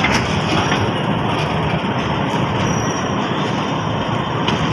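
Passenger train carriage rolling slowly over the track, heard from on board as a steady rumble as it draws into a station. A faint high wheel squeal comes in past the middle.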